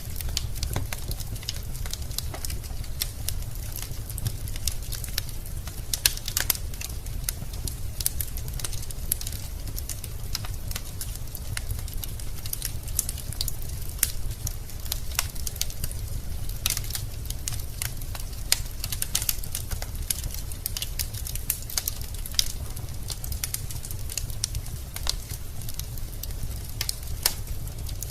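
Wood fire burning in a fireplace: logs crackling and popping at irregular moments over a low, steady rumble.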